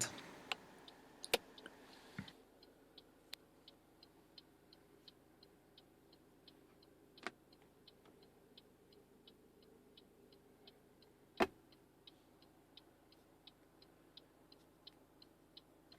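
Faint, steady ticking inside a car cabin, about two to three ticks a second, with a few louder single clicks at irregular times, the loudest about eleven seconds in.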